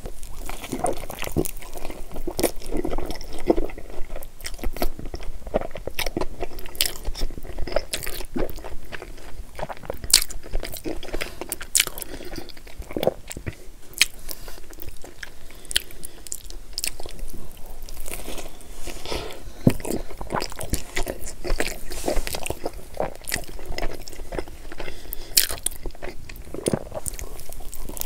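Close-miked biting and chewing of pepperoni pizza dipped in white sauce, with many sharp wet mouth clicks and smacks.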